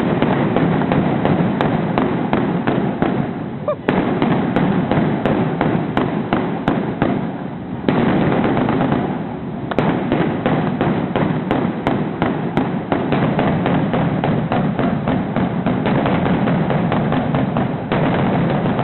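Fireworks going off in a continuous, rapid barrage of bangs and crackles, with fresh, louder volleys starting about 4, 8 and 18 seconds in.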